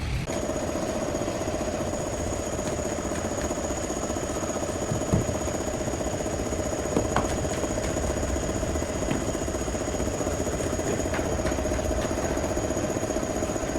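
Heavy machinery running steadily, a low rumble with a constant whine, and a few short knocks partway through.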